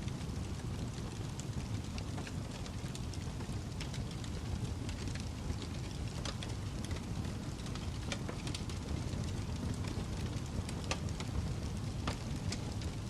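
Wood fire crackling in a fireplace: a steady low rush of flame with irregular sharp pops and snaps scattered throughout.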